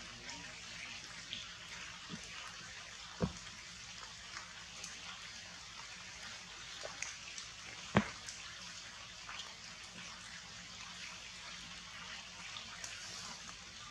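Steady rain falling on forest leaves, with scattered drips and two sharp knocks, about three seconds in and again about eight seconds in.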